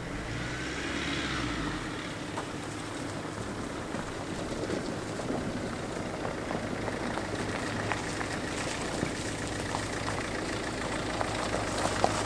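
Steady low hum of a running vehicle engine, with a few light clicks.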